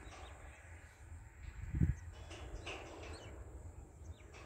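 Faint bird chirps over a steady low rumble, with one dull thump about two seconds in.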